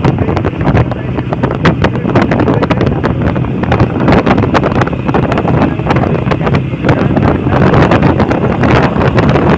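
Heavy wind buffeting the microphone on a moving motorcycle, with the engine running steadily underneath.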